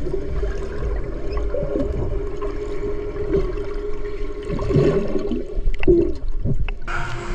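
Moving water gurgling over a low rumble, with a steady low hum running through it and scattered small clicks. The sound cuts off abruptly near the end.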